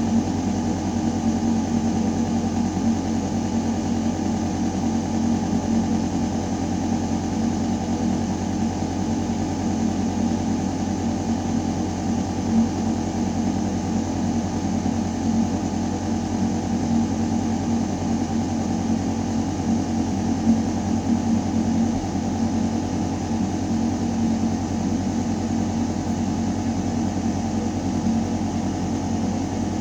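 Steady mechanical hum of a building's ventilation system, air moving through a metal shaft: a constant low drone with a few steady tones over an even hiss.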